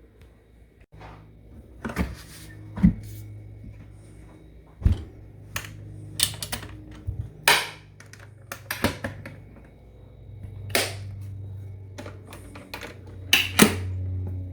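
Irregular clicks, knocks and clunks, like things being handled and set down, over a low steady hum that comes in about a second in.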